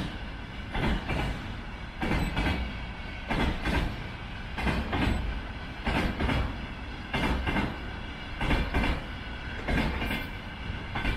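Container freight train rolling past, its wagon wheels clacking over rail joints in pairs of knocks about every second and a quarter, over a steady low rumble.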